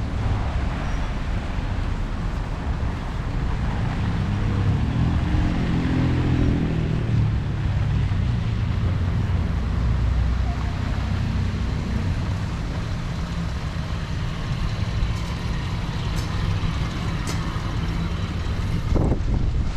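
Road traffic going by on a city boulevard, with a heavier vehicle's engine passing about five seconds in, over a low rumble of wind on the microphone.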